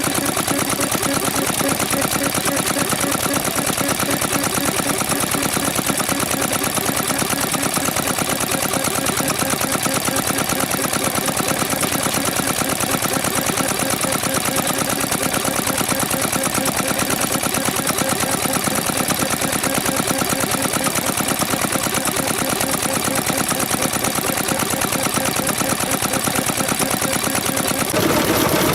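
Vintage Japanese stationary engine (hatsudoki) running steadily with a rapid, even beat.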